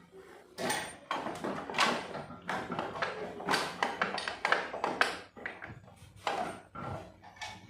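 Irregular metallic clinks, knocks and clatter of hand tools working on a motorcycle's stock exhaust bolts during removal.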